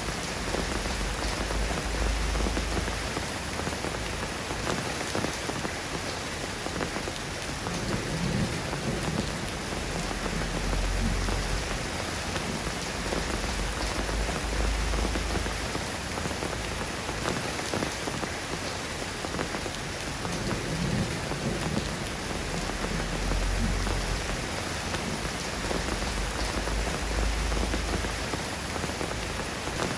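Steady rain falling on a surface, a dense even patter, with low rumbles swelling and fading underneath every several seconds.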